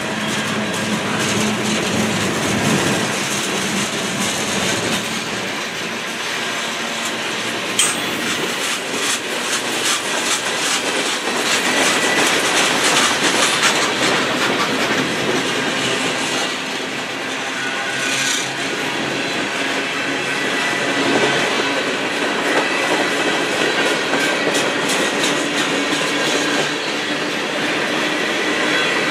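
Freight train boxcars and covered hopper cars rolling past at close range: a steady rumble of steel wheels on rail, with runs of rhythmic clickety-clack from the wheels crossing rail joints, heaviest partway through.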